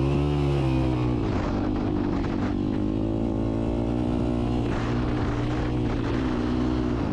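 Yamaha YZ250 two-stroke dirt bike engine running under throttle as it is ridden. Its pitch climbs at the start, eases off, then holds fairly steady with small rises and falls, and drops at the very end.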